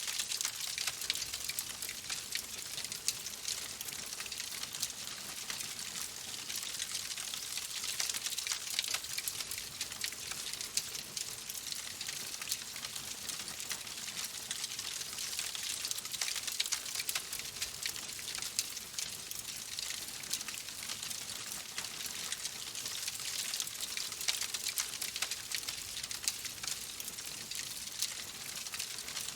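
Wood fire crackling steadily: a continuous hiss with frequent small crackles and pops.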